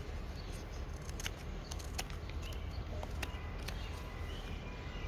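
A knife whittling soft, punky wood: small cuts heard as scattered sharp clicks and light scrapes, irregularly spaced.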